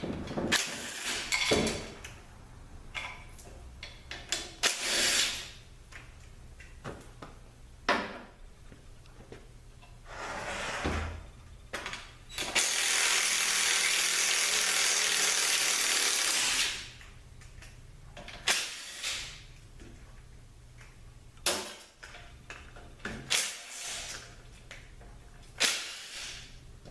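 A power wrench spinning out the bell housing bolts of a Nissan RL3F01A three-speed automatic transaxle. It runs in several short bursts and one steady run of about four seconds midway, with small metallic clinks of tools and bolts in between.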